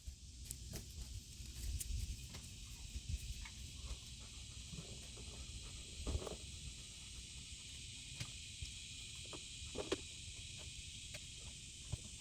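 Steady, high-pitched chorus of insects, with scattered clicks and light knocks throughout.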